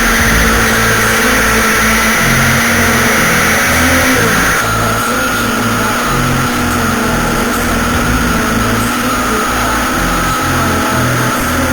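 Yamaha YZF-R6 sport bike's inline-four engine running as the bike is ridden. The sound changes abruptly about four and a half seconds in.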